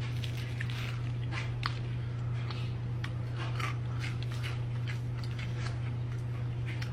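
Close-up mouth sounds of eating: wet chewing, smacking and small clicks as chicken wings and potato wedges in cheese sauce are bitten and chewed, over a steady low electrical hum.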